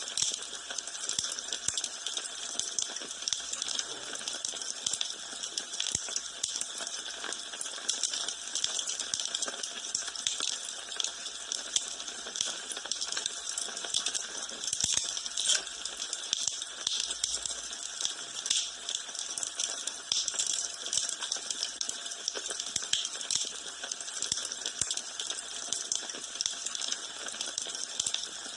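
Wood fire burning in a fireplace, crackling steadily: a dense, irregular run of small pops and snaps over a constant hiss.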